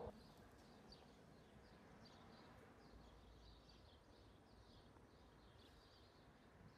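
Near silence: faint outdoor air with distant birds giving small, high chirps scattered throughout.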